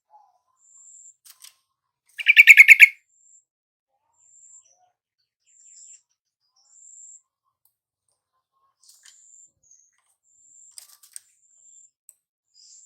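Yellow-vented bulbul (trucukan) singing one loud, bubbling phrase of quick notes about two seconds in. Faint, thin, very high notes repeat in the background.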